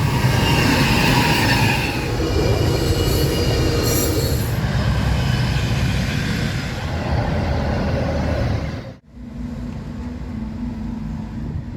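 Train running on rails, with a low rumble and a high wheel squeal. About nine seconds in the sound breaks off sharply and gives way to a quieter steady hum.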